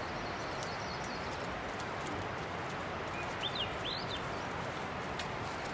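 Steady outdoor background hiss, with a small bird giving a few quick chirps a little past halfway and some faint scattered ticks.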